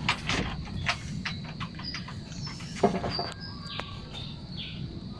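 Birds chirping in short calls over steady background noise, with scattered light clicks and one brief louder sound about three seconds in.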